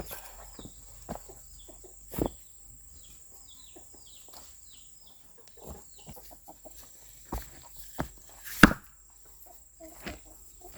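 Chickens clucking and peeping in short, high, falling chirps, with several sharp knocks in between; the loudest knock comes about three-quarters of the way through.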